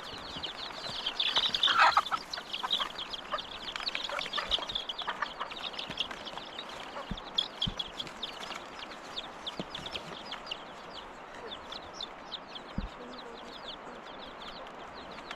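Birds chirping: a dense stream of short, high, falling peeps, loudest and busiest in the first few seconds and thinning out later. A few soft knocks fall in the middle.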